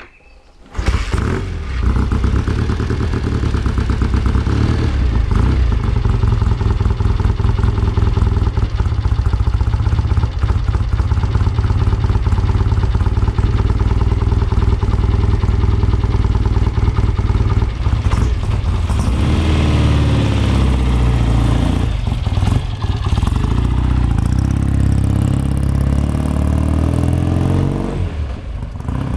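1965 BSA Lightning Rocket's 650 cc parallel-twin engine running, with twin Amal carburettors. It comes in suddenly about a second in, runs steadily, then its revs rise and fall about two-thirds of the way through before settling back.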